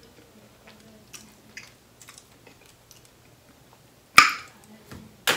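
A man quietly chewing a mouthful of biscuit, with soft mouth clicks and smacks. About four seconds in comes one loud sharp snap, and another short sharp click just before the end.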